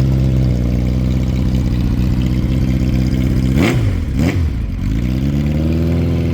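A 650 motorcycle engine running steadily at idle, with two quick blips of the throttle about three and a half to four seconds in before it settles back to idle.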